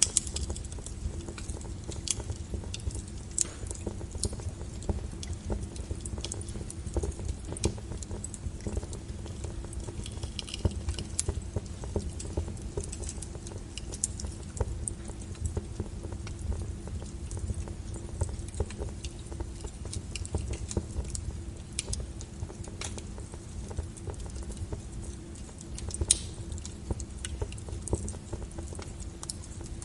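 Log fire burning in a fireplace, crackling with irregular sharp pops and snaps over a low rumble, one pop louder than the rest near the end.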